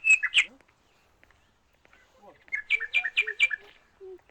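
A bird calling in rapid runs of sharp, repeated chirps: one run breaks off about half a second in, and after a short pause a second run of about five notes follows in the second half.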